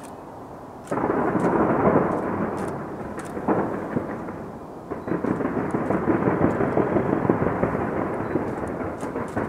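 Distant fireworks display launched from the Taipei 101 tower: a dense, continuous rumble of bursts with crackle. It jumps sharply louder about a second in, eases off around four seconds and builds again a second later.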